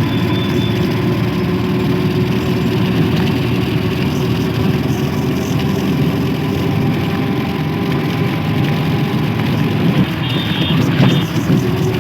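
Passenger train running, a steady loud rumble with a faint steady tone over it, and a few brief knocks and a short high tone near the end.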